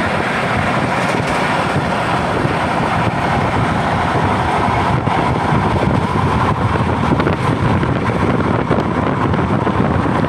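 Passenger train running at speed: a steady, loud rush of wind and rolling noise.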